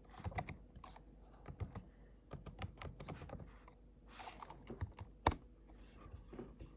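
Typing on a computer keyboard: irregular short key clicks, with a brief rustle about four seconds in and one louder click a little after five seconds.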